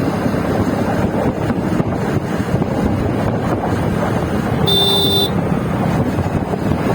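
Wind rushing across the microphone over a steady low rumble, as from a moving vehicle or boat. A short high beep sounds once about five seconds in.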